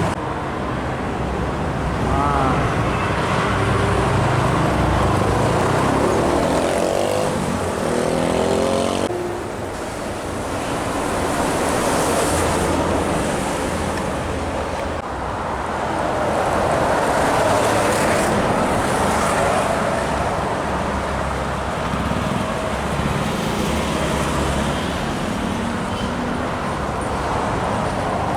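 Busy road traffic passing close by, cars and trucks going past in a continuous wash of engine and tyre noise. One passing engine's note drops in pitch a few seconds in, and the noise swells again as more vehicles pass midway through.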